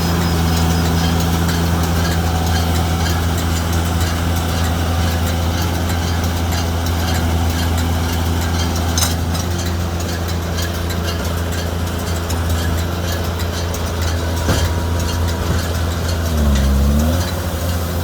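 JCB Fastrac 2170 tractor engine running steadily while driving a baler-wrapper, its pitch dipping briefly and recovering near the end. A couple of sharp clicks sound over it.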